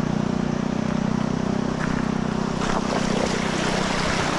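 Motorcycle engine running at steady low revs while the bike fords a river, with water splashing and churning around it.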